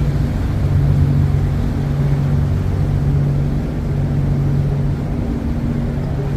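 Steady low hum of a cruise ship's machinery, a few constant low tones under an even rushing noise.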